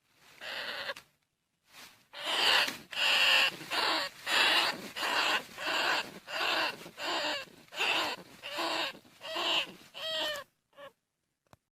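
Bandicoot rat calls: a steady run of short, harsh squeaks, about one and a half to two a second, the last few with a wavering pitch.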